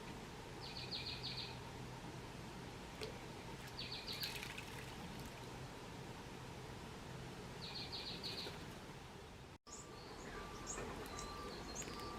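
Birds calling outdoors: three short bursts of rapid high ticking notes, with a few faint clicks between them. About two-thirds of the way through, the sound cuts out for an instant and different scattered chirps follow.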